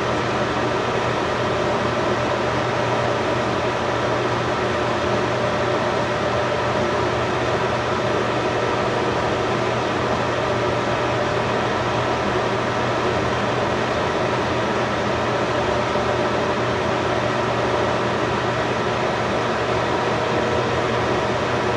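A steady machine hum and whir with several constant tones over an even rushing noise, unchanging in level.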